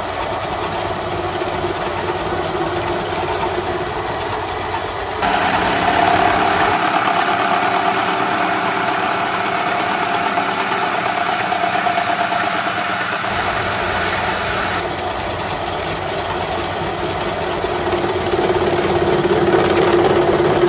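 Belt-driven metal lathe running steadily while its cutter faces off a hub, a constant machine hum with a whirring tone. About five seconds in the sound turns abruptly louder and hissier, and about fifteen seconds in it drops back.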